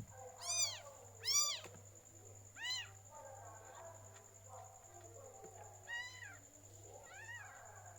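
Cat mewing five times in short, high-pitched calls that each rise and fall in pitch, the first three close together and the last two after a pause of about three seconds. A sharp click sounds at the very start.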